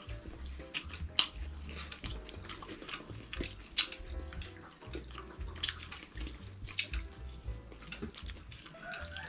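Close-up wet chewing and lip-smacking of someone eating fried fish with his hands, with many sharp, irregular mouth clicks and smacks.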